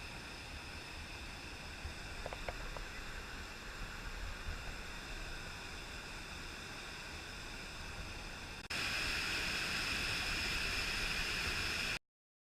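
Steady hiss with a few faint clicks. Near the end it jumps suddenly louder and brighter, then cuts off to silence.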